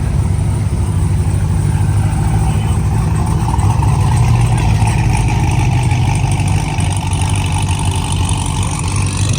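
A car engine idling, low and steady, its pitch lifting slightly for a moment in the middle and settling again.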